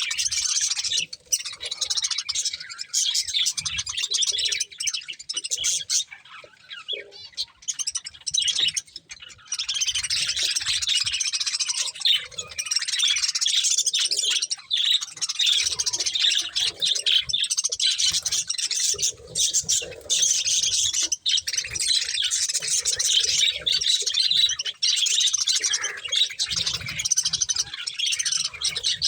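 Budgerigars chirping and chattering in a dense, rapid stream of high calls, thinning out for a few seconds about five seconds in before picking up again.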